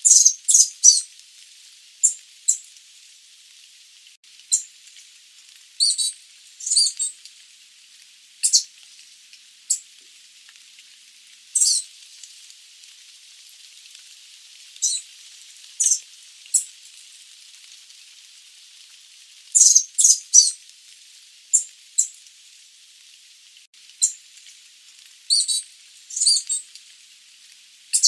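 Sooty babblers calling: short, high chips and chirps, some single and some in quick runs of two to four, at irregular intervals over a steady high hiss.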